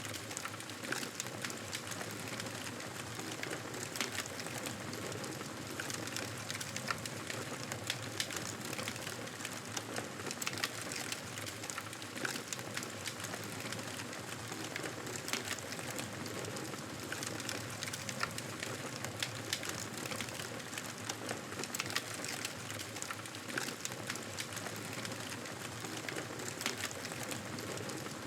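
Wood fire crackling in a fireplace: a steady hiss dotted with frequent, irregular pops and snaps.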